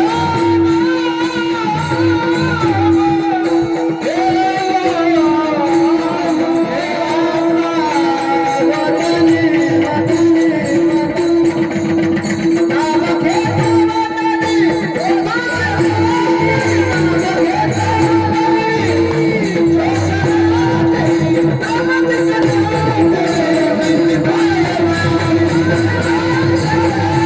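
Warkari devotional bhajan in raga Bhairavi: a male lead voice sings a high, gliding melody over a steady held drone note and a dense percussion rhythm.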